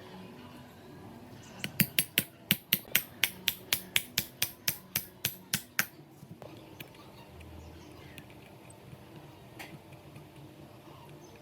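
A quick, even run of about sixteen sharp metallic-sounding taps, roughly four a second, lasting about four seconds. A few faint isolated ticks follow over a low background.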